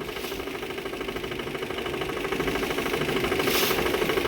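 Motorboat engine running, a rapid even chugging that grows louder about two to three seconds in.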